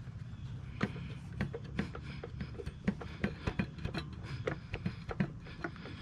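Light clicks and taps of hand tools and small engine parts being handled during a small-engine teardown, a dozen or so at irregular intervals.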